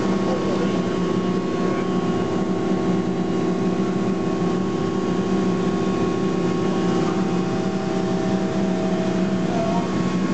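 40 hp DuroVac industrial central vacuum drawing air through a 2-inch hose and floor sweeping tool while vacuuming shredded rubber: a steady hum over a rushing hiss, with no change in level.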